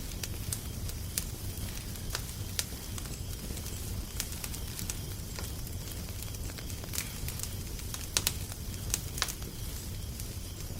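A wood fire crackling: irregular sharp pops and snaps over a steady low rumble, with a couple of louder pops about eight seconds in.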